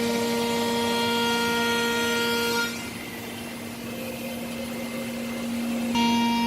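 Biesse Rover A3 CNC nesting router running, its spindle giving a steady whine over machining noise. About two and a half seconds in the sound drops sharply to a quieter, lower tone, and it comes back to full strength near the end.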